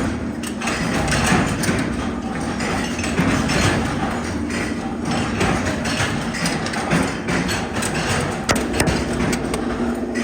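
Factory machinery running with a steady hum and a dense, irregular clatter of metal knocks and clicks.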